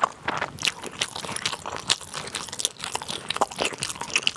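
Close-miked person chewing a mouthful of dumpling: an irregular run of many short clicks and smacks.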